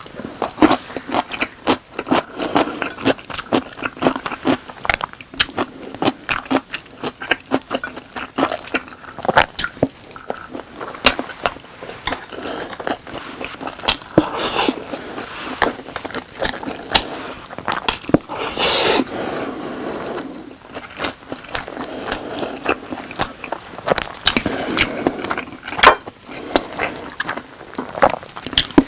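Close-miked chewing of boneless sauced chicken and rice, with many rapid wet mouth clicks and smacks and a few louder scraping noises about halfway through and near the end.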